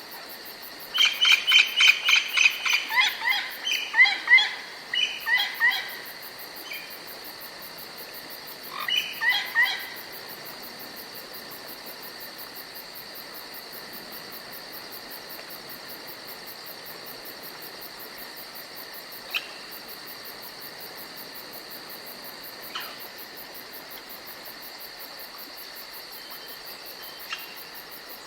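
Forest songbird singing rapid runs of repeated chirping notes: one spell about a second in lasting several seconds, and a shorter one near the middle. Underneath is a steady high-pitched insect drone, with a few faint clicks later on.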